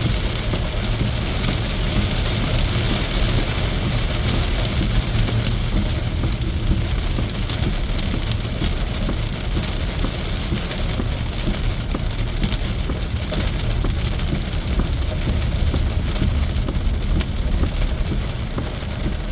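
Heavy rain hitting a car's roof and windshield at highway speed, with steady road noise underneath.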